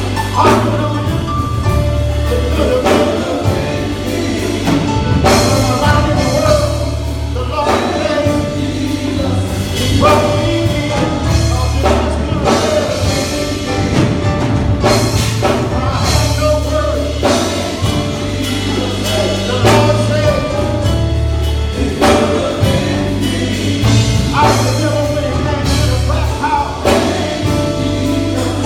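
Gospel music: singing over a band with a heavy, pulsing bass line and drums.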